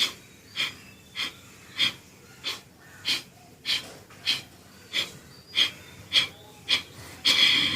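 Kapalabhati breathing: about a dozen short, forceful exhalations pumped out through the nose, evenly spaced a little over half a second apart. Near the end comes one longer, fuller exhalation as the air is squeezed out of the lungs to close the cluster of 13 strokes.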